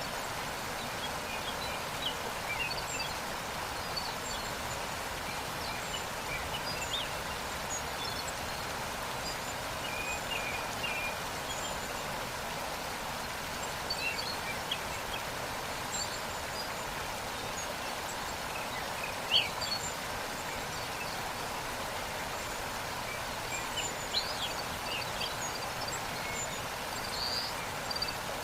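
Waterfall with a steady rush of falling water, with short bird chirps scattered throughout and one louder chirp about two-thirds of the way through.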